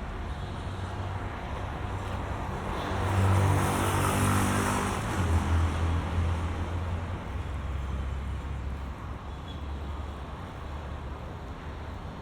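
Road traffic with motor vehicles running, one passing close about three to five seconds in, then fading away.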